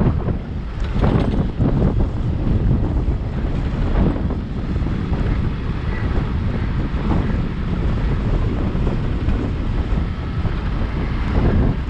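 Steady low wind rumble buffeting an action camera's microphone on a moving Suzuki Access 125 scooter, with the scooter's running and road noise underneath.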